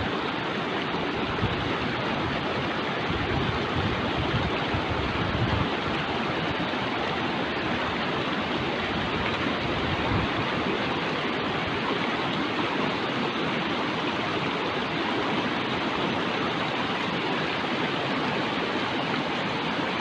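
Fast-flowing mountain stream rushing steadily, an even unbroken roar of water.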